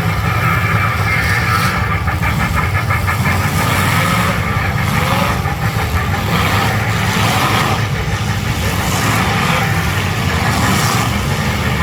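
Demolition derby car engines running together, a loud steady rumble.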